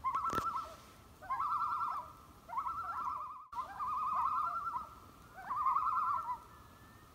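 A bird calling: five quavering, warbling calls held at one pitch, each under a second long and about a second apart.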